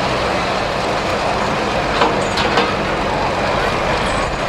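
Pro Farm pulling tractor's diesel engine running flat out under load, a loud steady noise, with a few sharp cracks about two seconds in.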